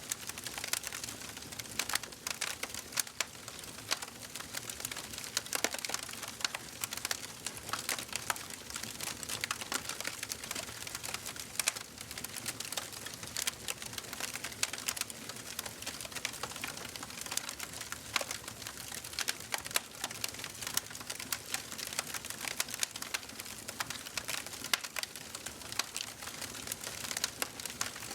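Wood fire in a fireplace burning steadily, with a dense, irregular crackle of small pops and snaps over a soft hiss.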